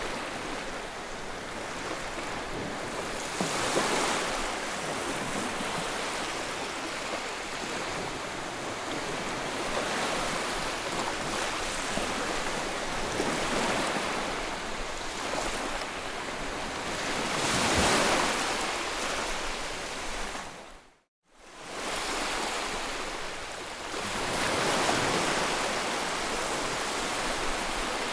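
Ocean waves washing onto a shore, the surf swelling and easing every few seconds. About three-quarters of the way through, the sound drops out to silence for a moment and fades back in.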